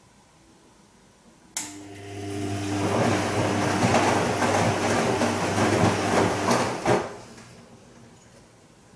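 Bosch Serie 2 Vario Perfect washing machine in its gentle silk wash cycle: the motor starts with a click and turns the drum for about five seconds, with a steady motor hum and swelling swish of water and laundry, then stops suddenly.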